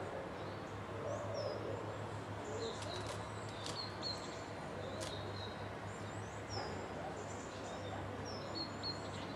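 Small birds chirping and whistling in many short, high calls scattered throughout, over a steady low hum and a constant hiss.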